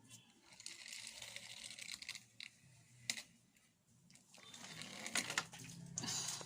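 Toy vehicles being handled and rolled, a fast rattling clatter of small clicks in two spells with a single sharp click between them.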